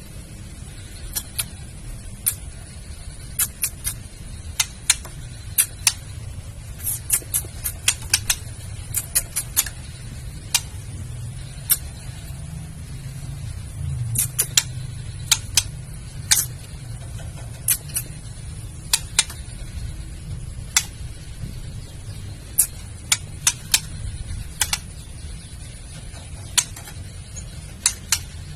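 Female white-rumped shama giving its sharp clicking 'kretekan' call: short dry clicks, some single and some in quick runs of several, at irregular intervals over a steady low hum. It is the female's call that stirs a male shama to sing.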